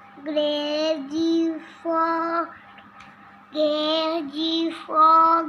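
A child singing a simple tune in short, evenly held notes: a first phrase of four notes, a pause about halfway through, then another phrase of notes.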